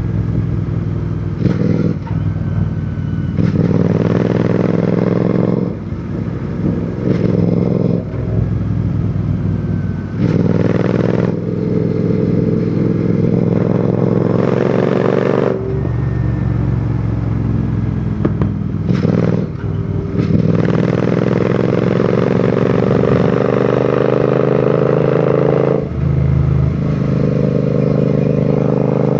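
Royal Enfield Continental GT 650's 648 cc parallel-twin engine and exhaust under way, rising in pitch again and again as it accelerates through the gears, with short dips at each gear change or throttle lift.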